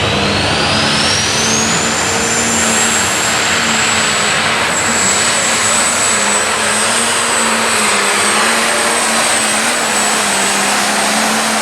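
Diesel super stock pulling tractor running at full throttle under load down the track, its turbochargers giving a high whine that rises over the first couple of seconds and then holds steady over the engine's roar.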